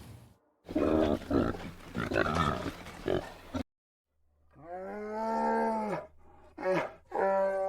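A pig grunting in a run of rough grunts for about three seconds, then after a short silence a different animal's long pitched call lasting about a second and a half, followed by shorter calls near the end.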